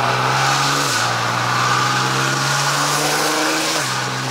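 Car engine pulling under acceleration, its pitch climbing slowly and dropping suddenly at each gear change, about a second in and again near the end.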